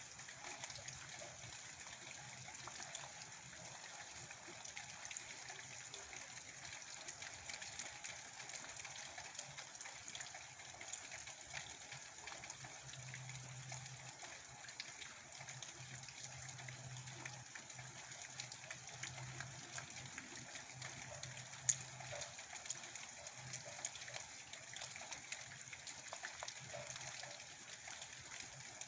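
Steady heavy rain falling, a dense hiss of many individual drops. A low hum comes and goes underneath, and a single sharp tick stands out about two-thirds of the way through.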